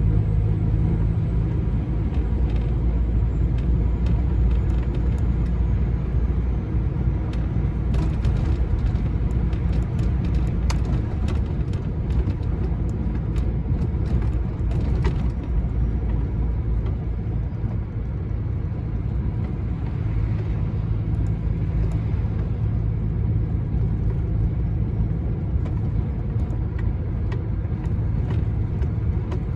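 Lorry's diesel engine and tyre noise heard from inside the cab as it drives along, a steady low rumble. A few light clicks come through it in the middle.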